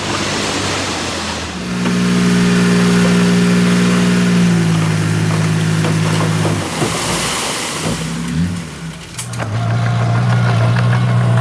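Diesel engine of heavy earthmoving equipment running loud and steady, its pitch stepping up and down a few times as the load changes, with a short dip and a sharp knock about nine seconds in.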